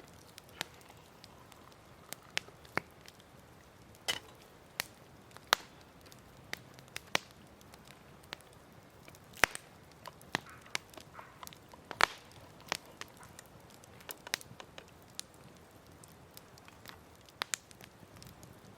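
Wood campfire crackling, with irregular sharp pops at uneven intervals over a faint steady hiss.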